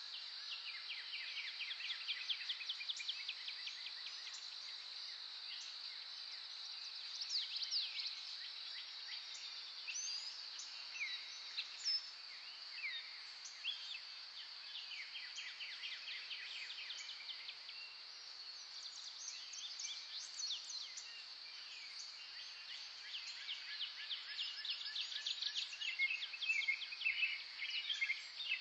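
Birdsong from several birds: rapid trills and quick downward-sweeping chirps, busiest near the start, in the middle and toward the end, over a steady high-pitched drone.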